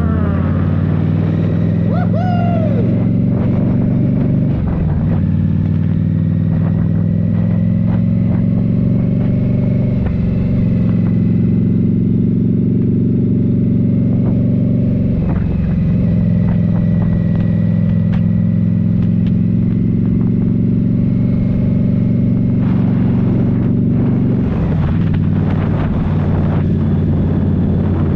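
2023 Indian Scout Rogue's 69 cubic-inch (1133 cc) V-twin running under way through a Rinehart slip-on exhaust, heard from the rider's position. The engine note holds steady, dipping and changing pitch briefly three times, around 5, 15 and 24 seconds in, as the throttle or gear changes.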